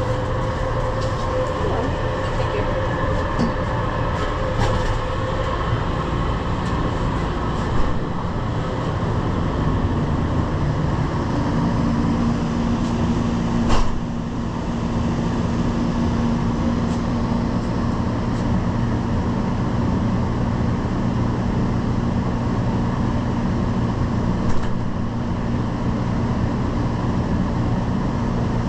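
Inside a light-rail train car: a steady low rumble and hiss of the train, with a steady hum tone coming in about twelve seconds in and a single sharp click a little later.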